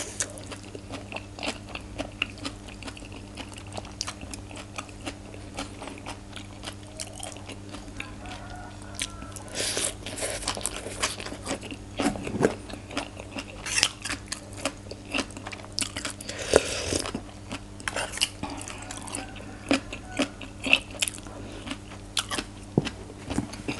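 Close-miked, crisp chewing and crunching of a mouthful of papaya salad with raw shrimp and fresh vegetables, with denser bursts of crunching about ten seconds in and again near seventeen seconds. A faint steady low hum runs underneath.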